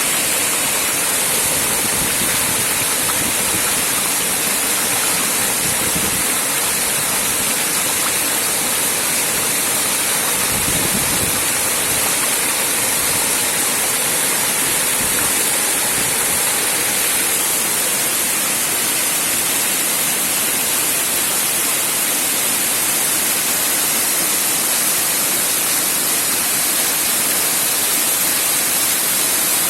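Shumka waterfall on a mountain river: water falling and rushing in a loud, steady roar.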